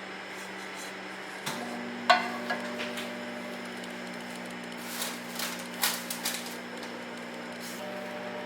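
A handful of sharp knocks and clinks of kitchenware, the loudest about two seconds in, over a steady electrical hum that changes tone about a second and a half in.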